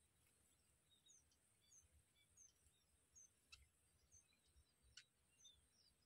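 Near silence, with faint short high bird chirps scattered throughout over a steady high hiss, and two faint clicks in the second half.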